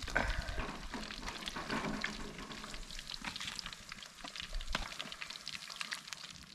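Battered northern pike pieces frying in a pan of hot oil over a campfire, a dense crackling sizzle that thins out toward the end, with one sharper pop a little before the last second and a half.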